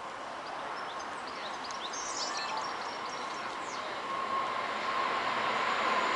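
A train approaching along the track, its steady whine growing louder over the last couple of seconds. Birds chirp briefly about two seconds in.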